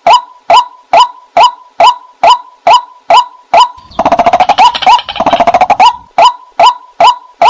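White-breasted waterhen call: a sharp, pitched note repeated evenly about twice a second, broken between about four and six seconds in by a faster run of lower notes.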